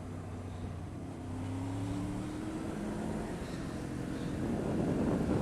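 Motorcycle engine running while riding, its pitch rising gently a couple of seconds in as the revs climb, with wind noise on the microphone building toward the end.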